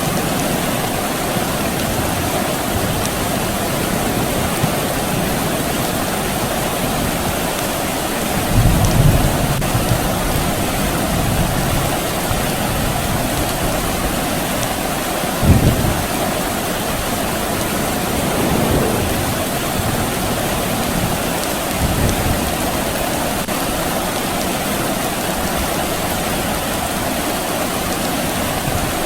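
Steady rain falling, with a few low rumbles of distant thunder: the strongest about 9 seconds in and a shorter, sharper one about 15 seconds in, and fainter ones later.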